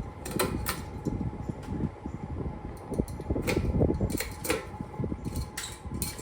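An outdoor ceiling fan running: a steady hum over a low, uneven rumble, with several sharp clicks at irregular intervals.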